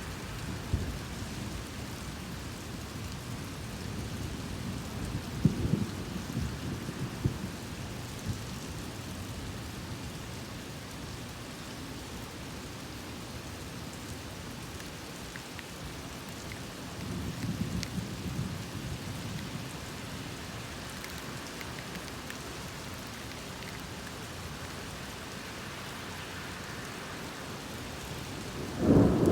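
Steady heavy rain falling, with rolls of thunder rumbling twice, and a sharp, louder thunderclap near the end.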